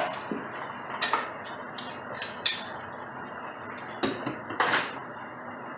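A few short, light metallic clinks and clanks at irregular intervals, like tools or pipe fittings being handled during plumbing work, over a steady background hiss.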